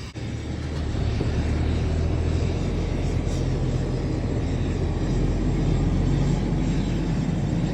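A steady low rumble, like a vehicle engine or traffic, starting abruptly just after the opening and holding level.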